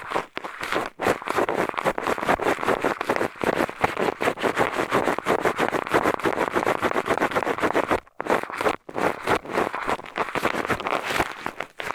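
Eyeglasses used as an ear pick, scratching and rubbing in a binaural microphone's ear: rapid rough scraping strokes, with a brief pause about eight seconds in.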